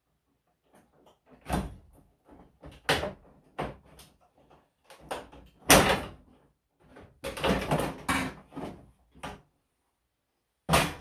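Plastic casing and parts of an LG wall-mounted air conditioner being handled for cleaning: irregular clicks, knocks and scraping, with the loudest knocks about six seconds in and near the end.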